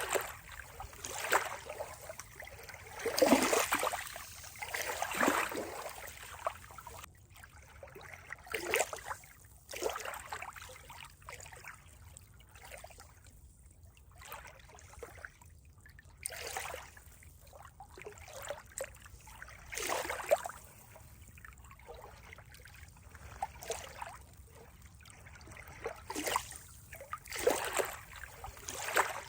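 Water trickling and splashing in uneven surges a second or two apart, with quieter stretches between.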